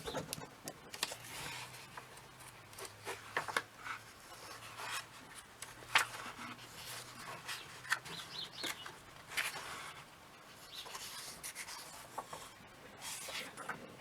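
Faint, irregular paper rustling and rubbing as a comic book's pages are flipped through and handled, with a few soft clicks.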